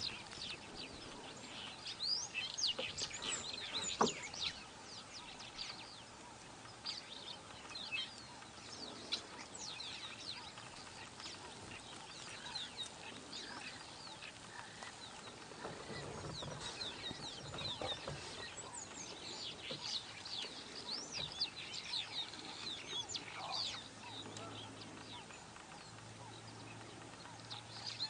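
Wild birds chirping and calling: many short, quiet chirps and whistles, most sliding quickly up or down in pitch, scattered through a faint outdoor background hiss.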